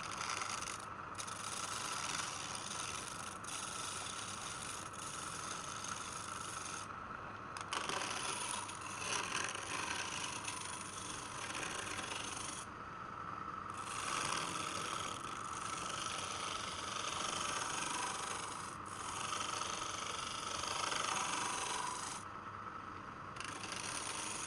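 Wood being worked on a lathe: a steady rasping scrape of a tool against the spinning wood. The hiss briefly drops out about five times.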